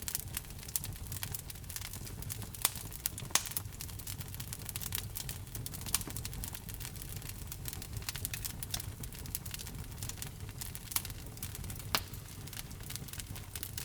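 Wood fire crackling in a fireplace: irregular sharp pops and snaps over a steady low rumble of the flames, with a few louder pops about two and a half, three and a half, six and twelve seconds in.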